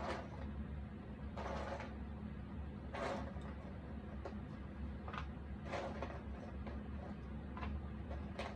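Jigsaw puzzle pieces being handled on a table: short scrapes and clicks every second or two as pieces are picked up, slid and fitted, over a steady low room hum.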